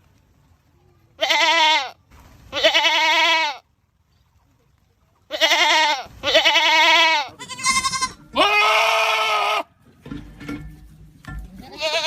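Goats screaming: a run of about six loud, wavering, drawn-out bleats of a second or so each, some back to back, followed by rougher, lower noise near the end and one more call at the end.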